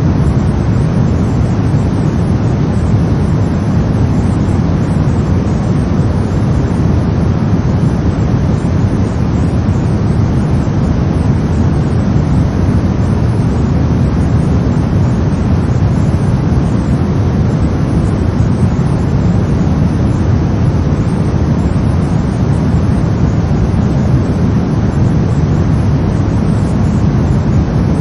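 Brown noise: a steady, deep rumbling hiss with no rhythm or change, its energy heaviest in the low end.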